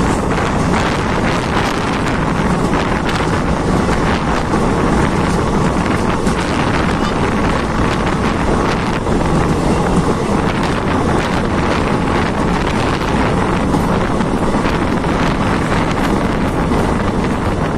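Steady rush of wind buffeting the microphone held out of a moving passenger train, over the running noise of the coaches' wheels on the track.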